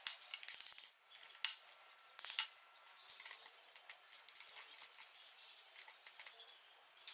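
Metal parts and hand tools clinking and knocking together, an irregular run of sharp clicks, some with a brief high metallic ring.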